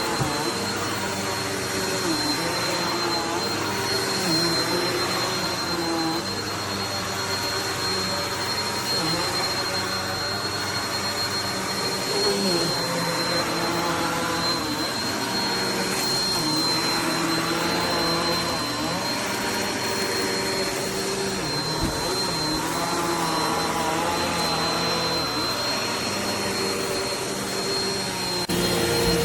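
Eureka NEU350 bagless upright vacuum cleaner running steadily, with a constant high-pitched motor whine; its lower hum dips and shifts in pitch now and then.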